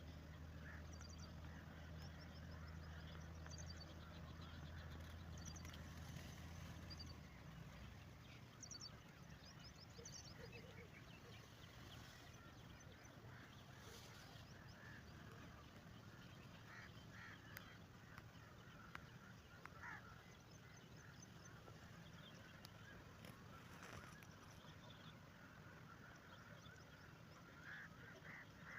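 Faint bird calls, short and scattered, over quiet background noise, with a low steady hum for the first seven seconds or so.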